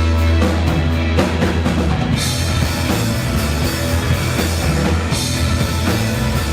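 Live rock band playing a loud, bass-heavy song with a drum kit; about two seconds in the high end fills out as the full band comes in.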